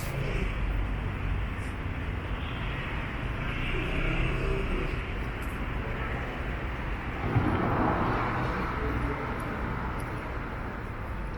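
City street ambience with a steady traffic rumble; a passing vehicle swells loudest about seven to eight seconds in.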